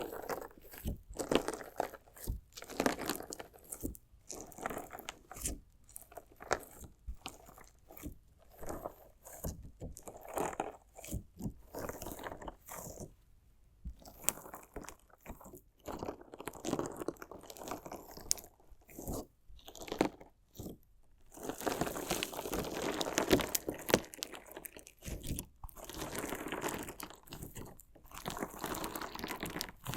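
Slime jelly packed with decorative stones being cut and stabbed, giving irregular crunches and gritty clicks, with a denser run of crunching about three-quarters of the way through.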